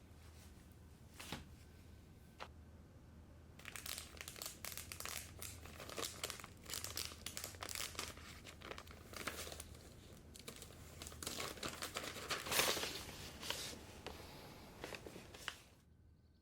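Wrapping being crinkled and crumpled by hand, with some tearing, as a dense run of quick crackles that starts about four seconds in and fades out near the end.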